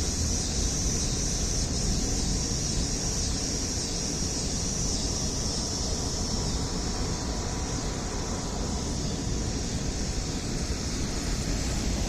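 Cicadas buzzing in a steady high chorus over the low, steady hum of an air conditioner.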